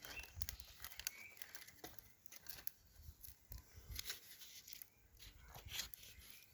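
Firewood being laid on a pile of dry twigs, bark and paper kindling: scattered light knocks, cracks and rustles of wood and bark.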